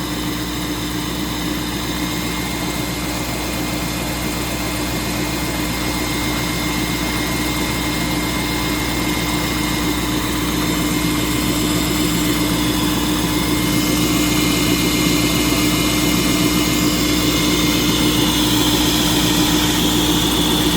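2004 Land Rover Discovery 2's V8 idling just after a cold start, with its secondary air injection (SAI) pump running and a heavy-duty clutch fan adding noise, a steady tone under it all. The SAI pump runs during cold warm-up, holding the engine slightly faster until it shuts off; overall normal Rover engine sounds.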